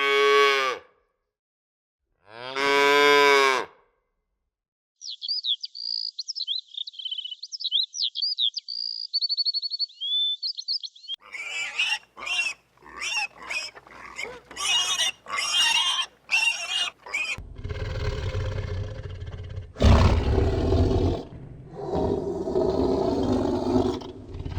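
Young farm animals calling in turn: two drawn-out pitched calls, then several seconds of high, quick peeping. Then comes a dense run of short calls, ending in louder, noisy sound with a low rumble.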